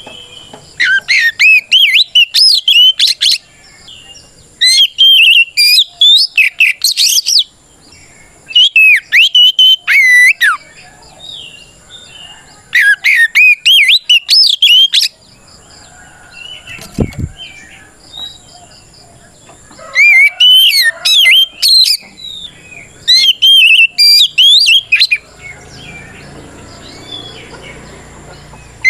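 Oriental magpie-robin singing a loud territorial challenge song that calls out rivals. It comes in six bursts of two to three seconds of rapid, varied whistles, separated by short pauses in which fainter notes continue.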